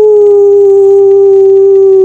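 A woman's voice holding one long sung tone, the pitch sliding slowly downward, as part of a wordless light-language toning.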